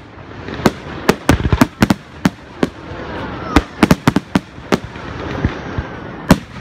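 Aerial fireworks display: shells bursting in about fifteen sharp bangs at irregular intervals, several close together in places.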